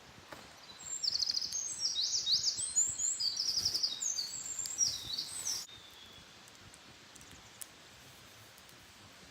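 A small songbird singing one long, rapid, high-pitched twittering song of trills for about five seconds, stopping suddenly about two-thirds of the way through; after that only faint outdoor background remains.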